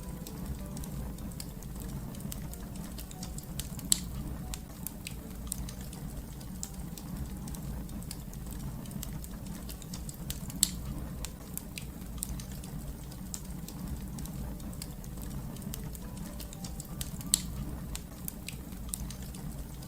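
Wood fire crackling steadily over a low rumble, with frequent small snaps and three louder pops.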